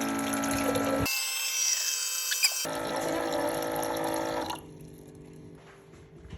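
Small electric water pump running with a steady hum as water flows, stopping about four and a half seconds in.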